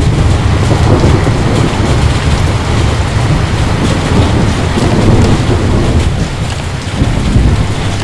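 Heavy rain falling steadily, with a low continuous rumble of thunder underneath.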